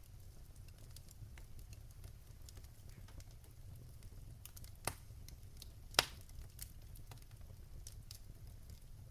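Wood fire crackling: scattered small crackles over a low, steady rumble, with two sharper pops about five and six seconds in.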